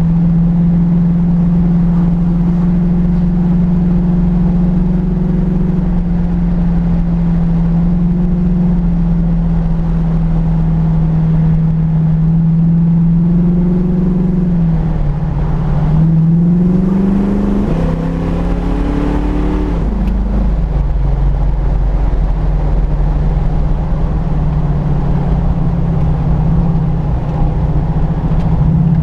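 Car engine running steadily under way, with low road rumble beneath. A little past halfway the engine note rises for a few seconds as it speeds up, then falls back to its steady pitch.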